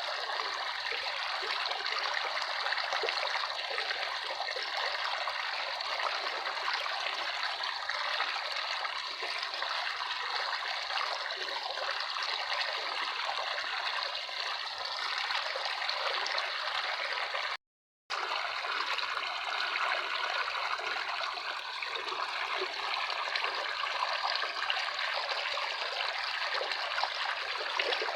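Running water from a small stream trickling and burbling steadily. The sound cuts out completely for about half a second roughly two thirds of the way through, then resumes unchanged.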